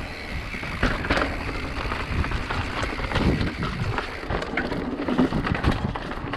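Mountain bike rolling over rough ground: tyre noise with scattered clicks and knocks from the bike, and a low rumble of wind on the microphone.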